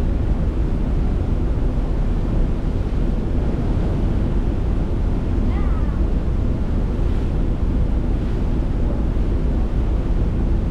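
Steady wind rumbling on the microphone over a sea-like rush of water, with a short faint chirp about five seconds in.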